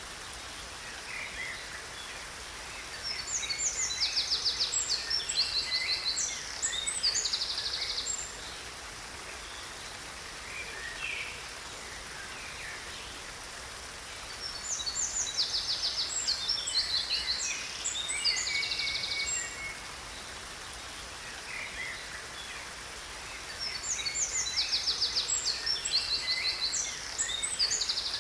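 Songbird singing three bouts of rapid high trills and chirps, each several seconds long and much alike, over a steady hiss of falling water.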